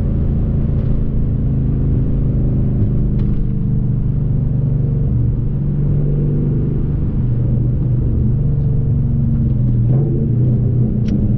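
Ford Mustang 5.0 V8 running through a muffler-delete exhaust with SLP straight-through resonators, a steady low exhaust note while cruising. The pitch sags slightly midway and climbs a little near the end.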